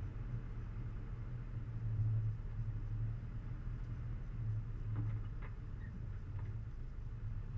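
A 4x4's engine running under load as it climbs a rough, rutted dirt track, a steady low hum that swells and eases. A few faint clicks come about five seconds in.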